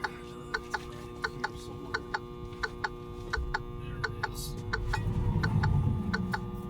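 Sharp double clicks repeating steadily, about one pair every 0.7 s, over a steady hum. A louder low rumble swells from about three seconds in and eases near the end.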